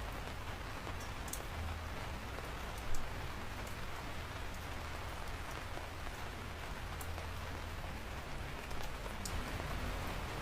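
Steady rain falling, with scattered sharp drips ticking over it and one brief louder drop about three seconds in.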